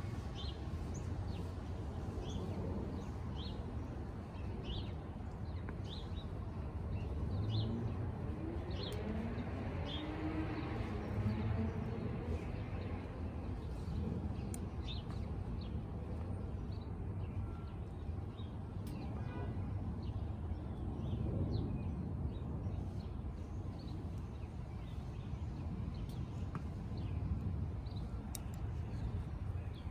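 A bird chirping over and over, short high chirps repeating through the first third, over a steady low outdoor rumble.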